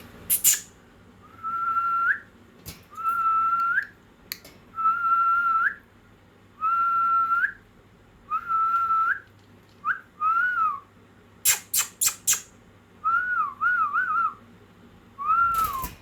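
Pet parrot whistling. A level note about a second long, rising at its tail, comes five times in a row. Then shorter falling whistles and a quick wavering run follow. Brief sharp high-pitched sounds come near the start and again, loudest, in a cluster a little past the middle.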